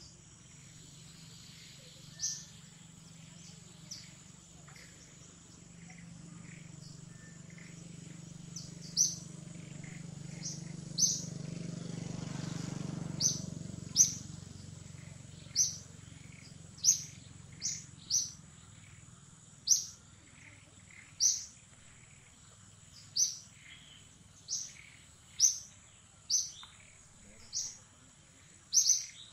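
A bird calling over and over, short sharp high chirps about every second or so, over a steady high-pitched insect whine. A low hum swells and fades around the middle.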